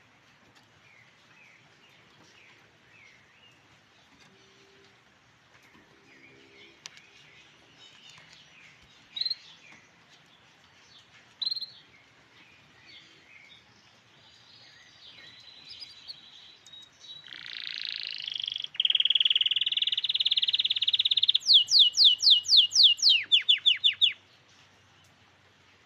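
Grey canary singing close by. After faint scattered chirps, a loud song phrase begins about two thirds of the way in: a buzzy rattle, then a fast run of about a dozen descending notes at roughly five a second, which stops abruptly.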